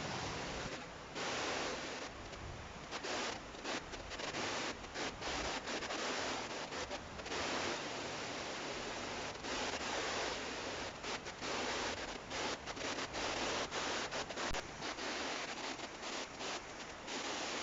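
Rustling noise that swells and drops unevenly every second or so, with many short flickers and no engine or horn heard.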